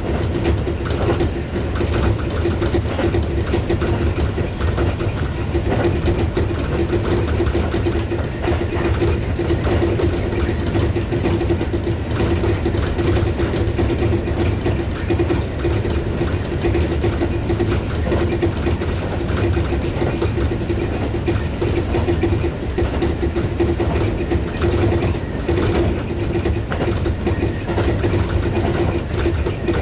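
Tobu 6050 series electric train running at speed, heard from inside the train: a steady rumble of wheels on rail with clickety-clack from the rail joints. Under it runs a constant hum and a faint high whine.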